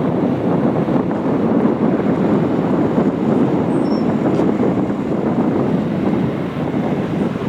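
Dassault Falcon 7X business jet arriving, its three turbofan engines making a steady rushing jet noise, with wind buffeting the microphone.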